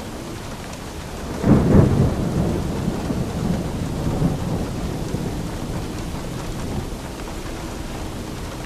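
Steady rain with a rumble of thunder that breaks in suddenly about a second and a half in, loudest at first, then rolls away over the next five seconds.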